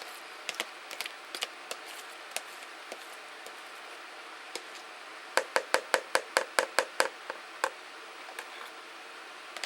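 A mixing utensil knocking and clicking against the side of a bowl as shredded chicken is stirred into a thick creamy sauce: scattered clicks, then a quick run of about ten knocks, about six a second, a little past the middle, then a few more.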